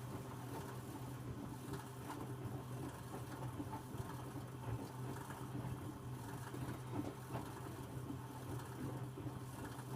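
Electrolux W455H commercial washing machine running mid-cycle with towels in the drum: a steady low hum with faint uneven sounds of the tumbling load.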